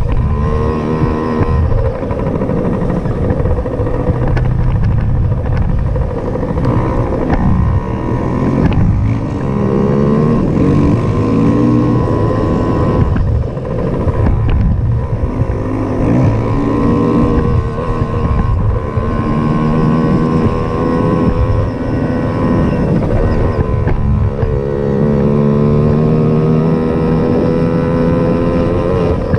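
Small dirt bike engine running, its pitch rising and falling again and again as the throttle is opened and closed.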